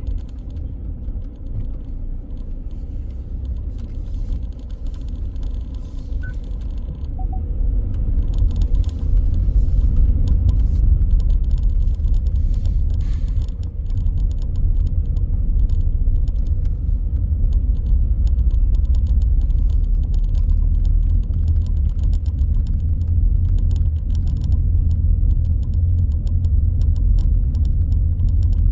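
A moving vehicle heard from inside its cabin: a steady low rumble of engine and tyre noise that grows louder about eight seconds in, with light rattling clicks throughout.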